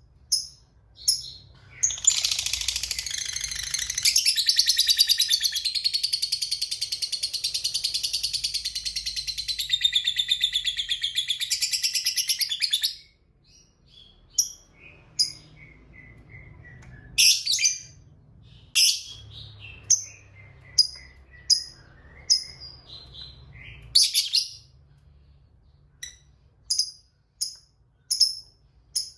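Lovebird giving a long, rapid chattering trill (the prized "ngekek panjang") lasting about eleven seconds, between runs of short sharp chirps repeated about twice a second and a few louder harsh calls.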